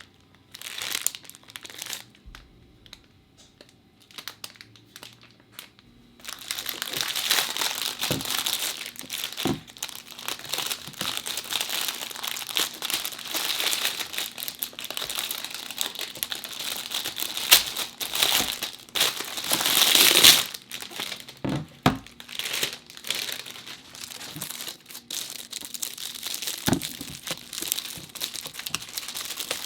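Packaging being handled and crinkled while haul items are unpacked: a few light taps and rustles at first, then continuous dense crinkling from about six seconds in.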